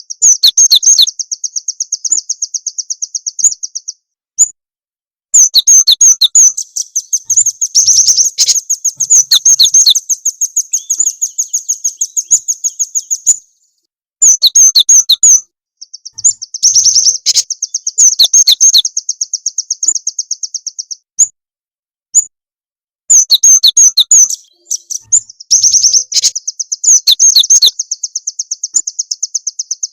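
Recorded songbird lure calls: high, fast trills of rapidly repeated notes, in phrases a few seconds long separated by short breaks.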